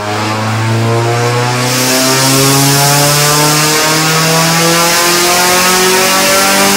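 Mazda Miata race car's four-cylinder engine running under load on a chassis dynamometer, its pitch climbing in steps every second or two. A loud hiss joins under it about two seconds in.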